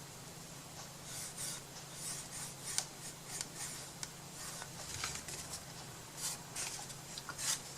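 Faint, irregular short scraping and rubbing strokes of paper being worked by hand, with a sharper click a little under three seconds in, over a steady low hum.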